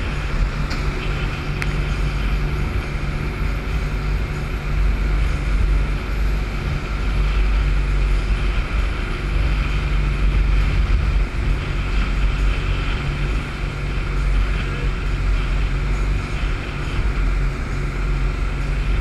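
Speedboat's engines running steadily at speed, a low even hum over a rumble, with wind buffeting the microphone.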